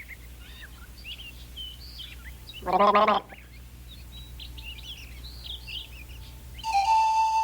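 Songbird chirping and twittering in quick, high, varied notes. About three seconds in comes a brief voice-like sound, and near the end a steady high whistled note begins and holds.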